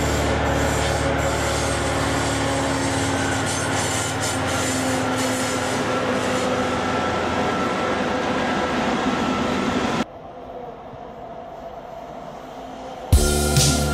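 A freight train passing behind OHE locomotives, with a steady engine hum over the rumble of the wagons on the rails. About ten seconds in, the sound cuts to a much quieter background. Near the end a loud, uneven sound starts abruptly.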